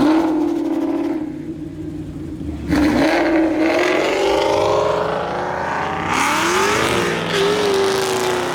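Ford Mustang engine revving high and holding, jumping louder about three seconds in, then sweeping up and back down in pitch near the end.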